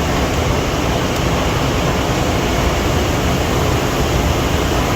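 Steady machine hum and hiss of a large hydraulic press brake's pump motor running, with no distinct strokes or impacts.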